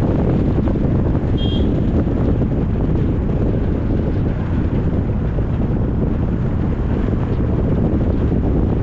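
Steady wind buffeting the microphone on a moving vehicle, mixed with the rumble of the road. A brief high chirp sounds about one and a half seconds in.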